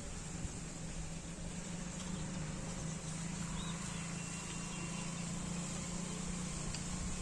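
A steady low mechanical hum, like an engine or motor running, holding an even pitch.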